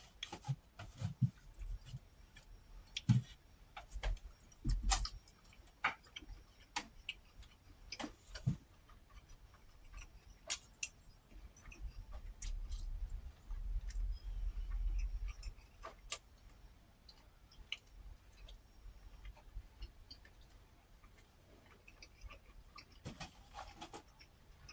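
Eating sounds close to the microphone: irregular clicks and light knocks, with a few low thumps now and then.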